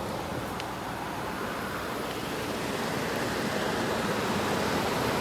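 2001 Kenmore (WCI) 8,000 BTU room air conditioner running, its fan blowing a steady rush of air, growing a little louder toward the end. A faint click about half a second in.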